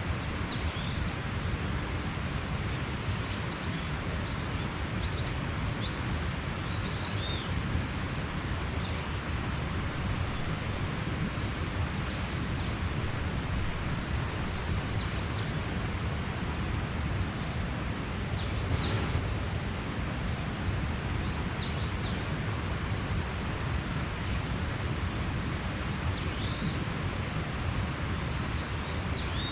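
Mountain stream running steadily, with birds giving short high chirps again and again over it.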